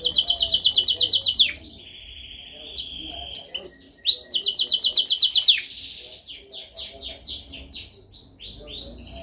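Domestic canary singing: a fast trill of repeated notes, about ten a second, then a held lower note, a second fast trill about four seconds in, and slower separate notes near the end.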